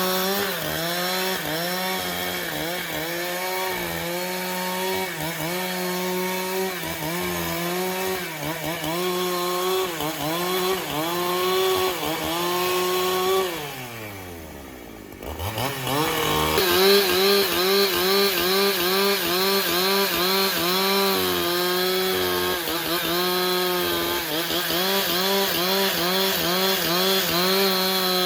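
Chainsaw running at high revs while cutting wood, its engine note dipping and recovering again and again as the chain bites. About halfway through it drops toward idle for a couple of seconds, then revs back up and keeps cutting.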